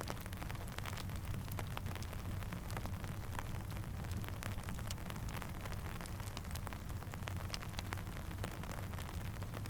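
Rainfall mixed with a crackling campfire: a steady low rumble and hiss with many sharp crackles and drip ticks scattered throughout.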